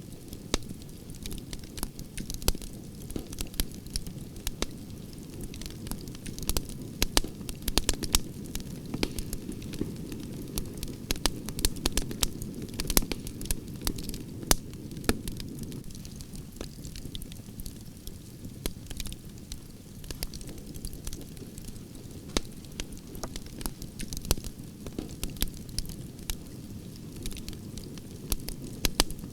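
Wood fire of burning branches crackling: frequent sharp, irregular pops and snaps over a steady low rush of flames.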